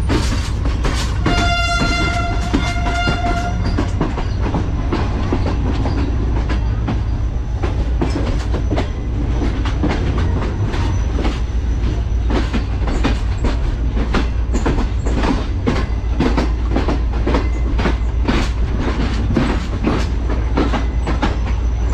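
A train running on the track, with a steady low rumble and a quick clatter of wheels over rail joints. A locomotive horn sounds once for about two seconds, about a second in.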